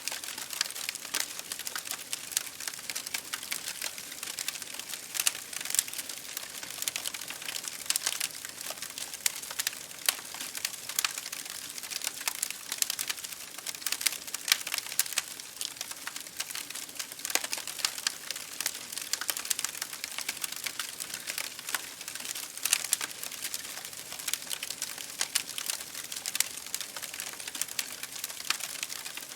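Wood fire crackling in a fireplace, mixed with rain pattering on window glass: a steady hiss full of dense, irregular small clicks and pops that never lets up.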